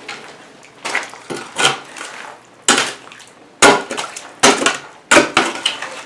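A digging tool striking and scraping into gravel and broken concrete in a floor hole: about seven sharp, irregular strikes with short clattering tails, the loudest near the middle.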